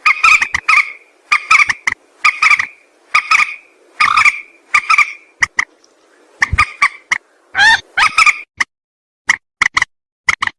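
Repeated calls of a mandar sawah, a rice-paddy rail: short pitched notes given in quick runs of several notes, a few per second, with brief pauses between runs.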